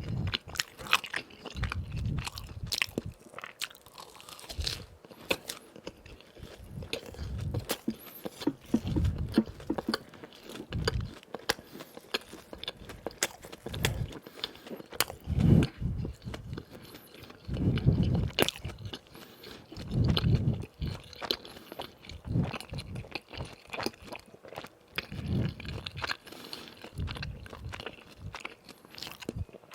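Close-up eating sounds of crispy fried doughnuts: crackly crunching bites and repeated chewing.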